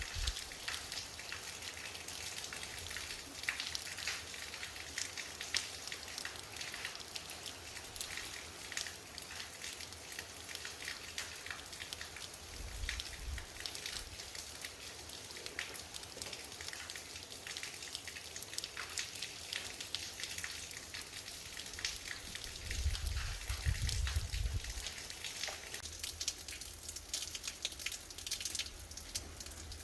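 Rain falling steadily, a crackly patter of drops, with low rumbles twice, about halfway through and again near the end.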